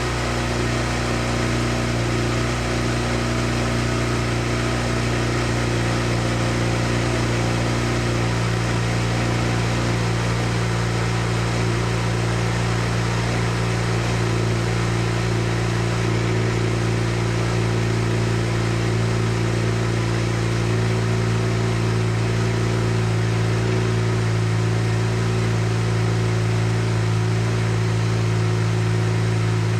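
Mazda RX-7 FC3S's turbocharged 13B rotary engine idling steadily, with slight shifts in its note about eight and twenty-one seconds in.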